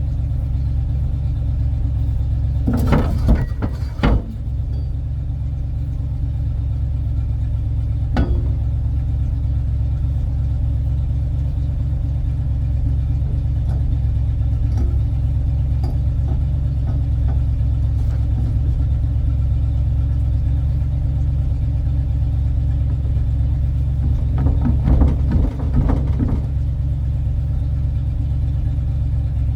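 1984 tow truck's engine idling steadily with a low rumble. Two short bursts of metallic clatter come a few seconds in and again near the end, with a single knock in between.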